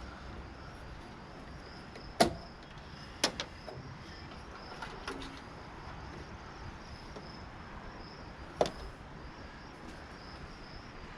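Sharp clicks and knocks of hand tools and metal parts being handled while a water heater is taken apart: three louder ones about two, three and eight and a half seconds in, with a few fainter ticks between.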